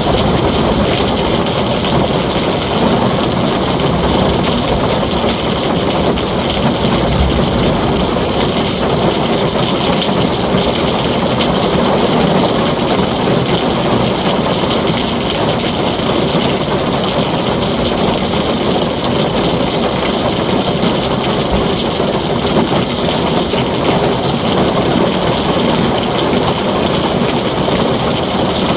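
Heavy rain drumming steadily on a tin roof, an even, unbroken downpour.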